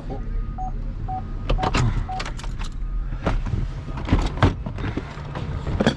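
A vehicle's reversing alarm beeps four times at an even pace over a running engine, while pieces of scrap metal clank and bang several times.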